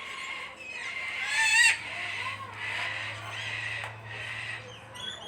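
Parrots calling: a series of short pitched calls, the loudest about a second and a half in.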